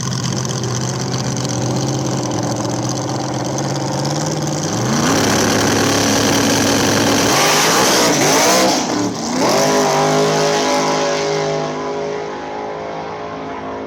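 Drag race car engine idling, then revved up about five seconds in and held at a steady higher pitch. Around the middle the revs swing up and down for a couple of seconds, then settle into a steady run that eases off slightly near the end.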